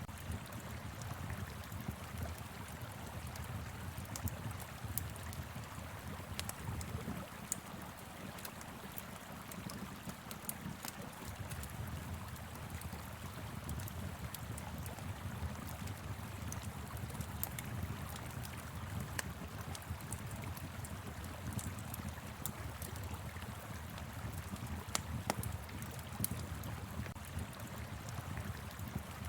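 Wood fire crackling with frequent sharp pops over the steady rush of a flowing river.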